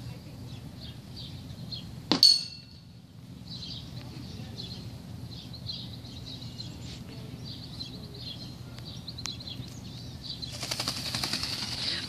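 High chirping of small birds throughout, with one sudden loud, sharp sound about two seconds in. Near the end a dense, rapid dry rattling sets in.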